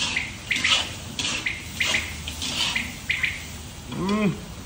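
Small birds chirping, short high chirps coming irregularly throughout. About four seconds in, a man gives one drawn-out hummed "mmm" of relish while chewing.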